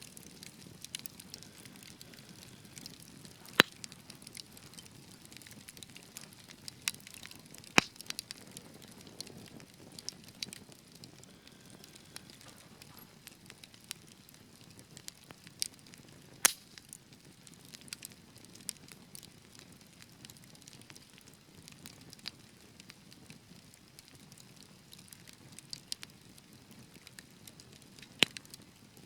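Fireplace fire crackling: scattered small snaps and a few sharper, louder pops over a faint steady hiss.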